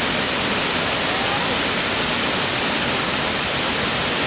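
Natural waterfall: a steady, even rush of falling water.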